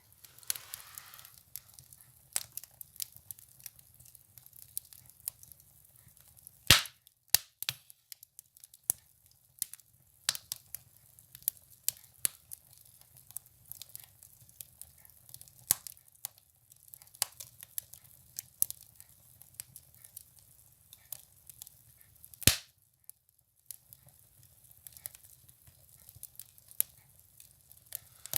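Firewood burning in a stove, crackling with irregular sharp snaps and pops. Two loud pops stand out, one a little before the middle and one past it.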